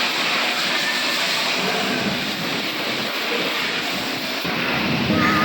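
Steady rushing hiss of water spraying under high pressure onto a car. Music with wavering tones comes in near the end.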